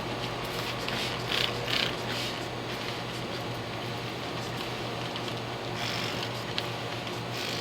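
Trigger spray bottle of 303 protectant being squirted in several short hissing bursts over a steady low hum: three in quick succession early on, then one more about six seconds in and another near the end.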